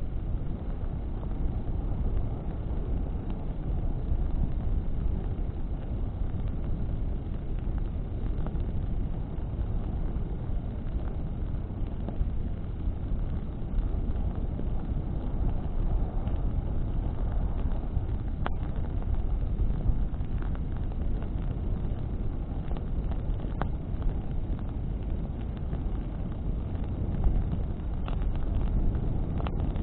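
Bonfire burning in the wind: a steady low roar of flames and wind, with a few sharp crackles from the burning wood.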